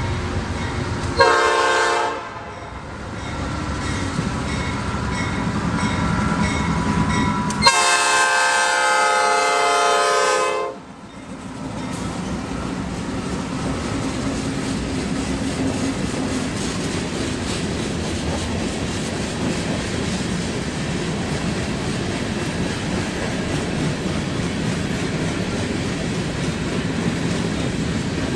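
A CSX freight locomotive's multi-note air horn sounds a short blast and, about six seconds later, a long blast of roughly three seconds, while a crossing bell dings steadily. The locomotives and loaded freight cars then roll through the crossing, a steady rumble with rhythmic wheel clatter over the rail joints.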